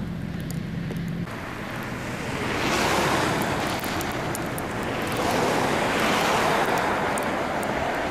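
Traffic passing on a snow-covered interstate. The tyre hiss swells and fades twice as vehicles go by. Before that, a steady low hum cuts off suddenly about a second in.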